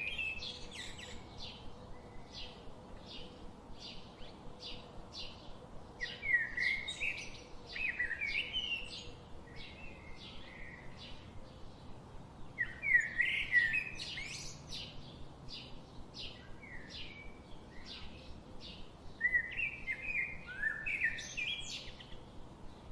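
Small songbirds calling: a steady run of short, high chirps about two a second, broken three times by louder, quick warbled phrases.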